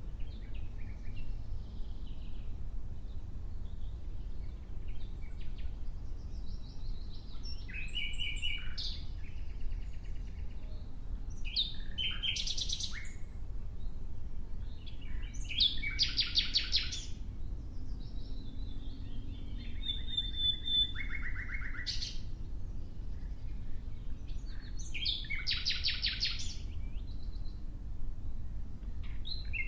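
A nightingale singing. It gives separate song phrases every few seconds with short pauses between them, many made of fast, rapidly repeated notes, over a steady low background rumble.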